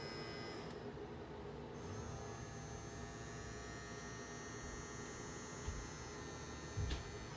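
Steady electrical hum made of many fixed tones, with two brief soft low knocks late on.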